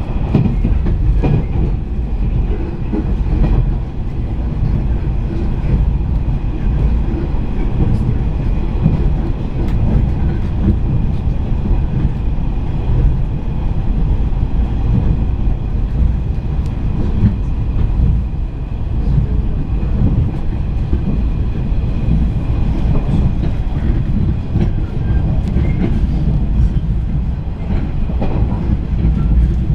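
Running noise of a JR East 485-series electric train at speed, heard from inside the passenger car: a steady, loud low rumble of wheels on rail with faint clicks from the rail joints.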